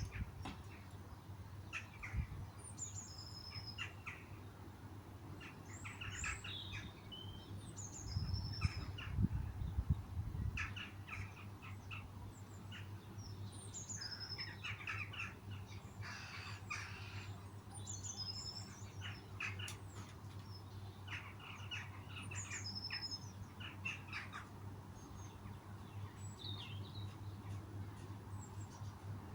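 Wild birds singing and chirping in short trills and calls, over a steady low hum, with a brief low rumble about a third of the way through.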